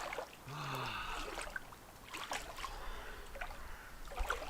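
Cold water sloshing and splashing around a person wading in, with a short groan falling in pitch about half a second in.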